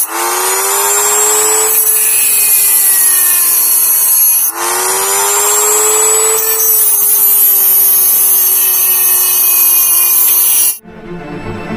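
RYU mini die grinder whining at high speed with its cutting disc grinding into a die-cast metal Hot Wheels car, with a strong high hiss. It comes as two takes; in each the motor pitch rises briefly, then sags a little under load. It cuts off abruptly near the end and music begins.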